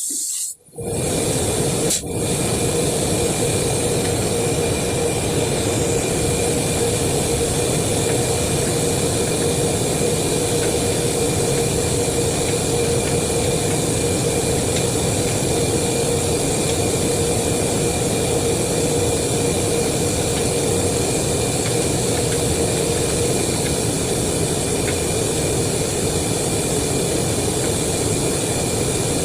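A machine starts up under a second in and runs steadily, with a constant hum and a hiss.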